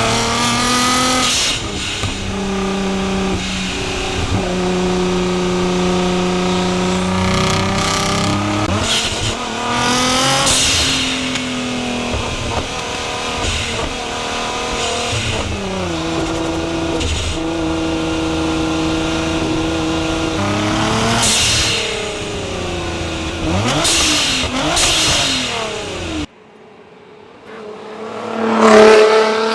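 Nissan R35 GT-R's twin-turbo V6 revving hard through the gears, its pitch climbing and stepping back down again and again. Near the end the sound drops away suddenly, then the car comes by loud, reaching its loudest just before the end.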